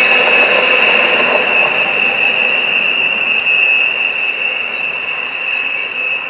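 Empty double-stack intermodal well cars rolling past on the rails, with a steady high wheel squeal. A fainter, higher whine cuts off about halfway, and the rolling noise fades as the end of the train moves away.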